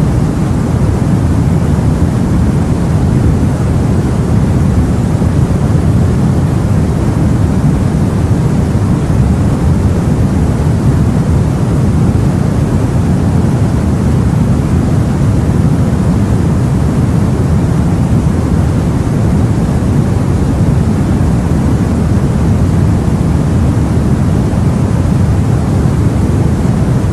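Steady, low rumbling rush of the sea as heard aboard a boat, with no separate waves breaking or swelling.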